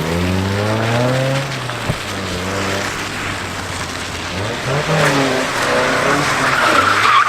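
Mazda Miata's four-cylinder engine revving up and down as the car drifts on wet pavement, its tires skidding, with the tire noise building to its loudest near the end.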